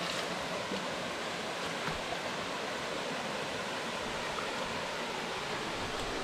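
Steady rush of water from a creek waterfall cascading into a pool, an even hiss with no changes.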